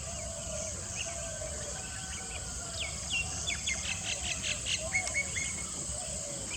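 Birdsong over a steady high-pitched insect chorus. A quick run of sharp chirps, about five a second, sounds from about three seconds in for roughly two seconds.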